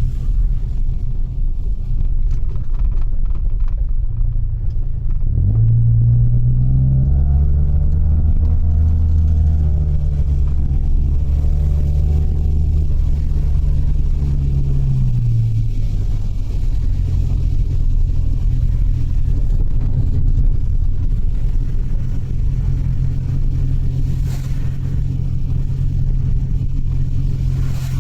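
Mitsubishi Delica van being driven, with a steady engine and road drone. About five seconds in the engine note rises as it accelerates, holds for several seconds, then drops back about fifteen seconds in.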